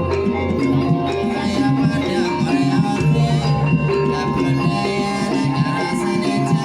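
Music for a Banyumasan ebeg trance dance: a tuned percussion ensemble playing a continuous repeating melody.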